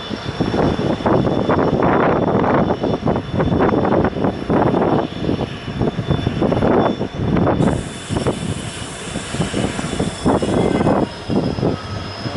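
Running noise of a moving passenger train, with wind gusting unevenly across the microphone, and a faint steady high whine beneath.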